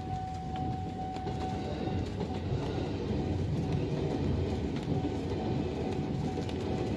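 KRL Commuter Line electric train passing over a level crossing, its wheels rumbling on the rails and growing louder after about two seconds. A steady high tone sounds for the first two seconds, then fades.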